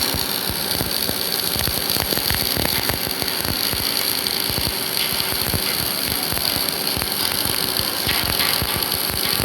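MIG welding arc crackling and sputtering steadily, a dense run of irregular small cracks over a continuous hiss.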